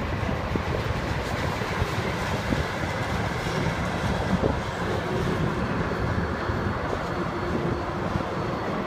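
Empty tank cars of a freight train rolling past: a steady rumble of steel wheels on the rails with scattered clicks as the wheels pass over the rail joints.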